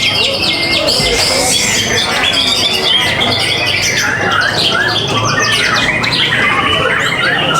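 Many caged competition songbirds singing at once: a dense chorus of overlapping rapid chirps, trills and squawks.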